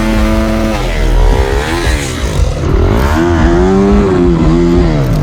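Dirt bike engine revving hard under load on a steep hillclimb, its pitch rising and falling as the throttle is worked.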